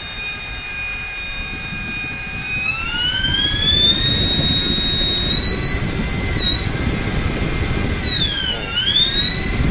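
TOPRC Tempest 800mm RC airplane's electric motor spinning its propeller in a bench run on a 2S battery. The steady whine climbs in pitch about two and a half seconds in as the motor speeds up from half throttle, holds high, then dips briefly near the end and rises again. The motor runs fairly smoothly.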